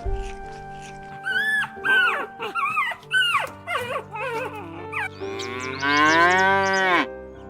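Animal calls over background music: a quick run of short, high, pitched calls, then one long drawn-out call that rises and falls, like a moo, ending near the end.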